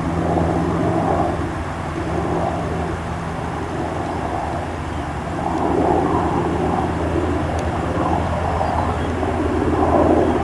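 Aircraft engine noise: a steady low drone under a rough rushing sound that swells about six seconds in and again near the end.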